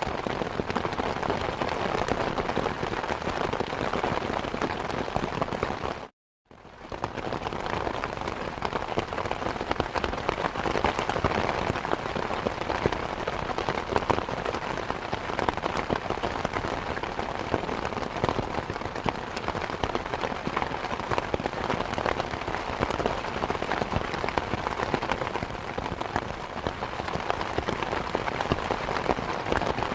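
Steady rain falling as an even, dense hiss of drops. About six seconds in it cuts out completely for a moment, then fades back in.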